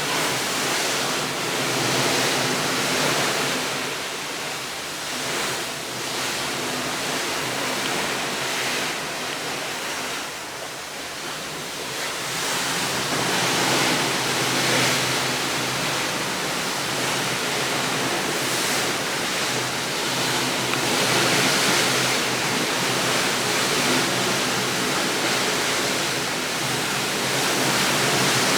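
Steady rushing noise with no distinct tones, swelling and easing every few seconds.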